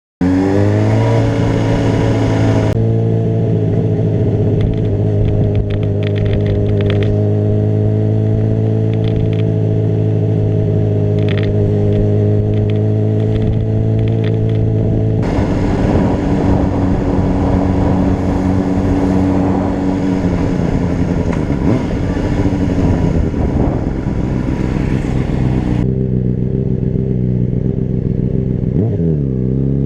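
Honda CBR600RR inline-four engine running, starting abruptly and holding a mostly steady pitch after a slight rise in the first few seconds. About halfway through the sound turns rougher, and near the end the pitch dips and then climbs again.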